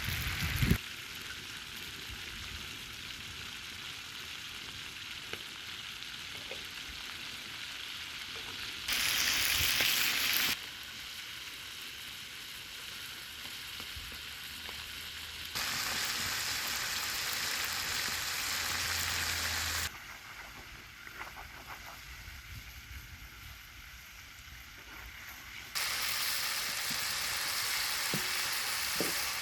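Food frying in hot oil, a steady sizzle whose loudness jumps up and down abruptly several times.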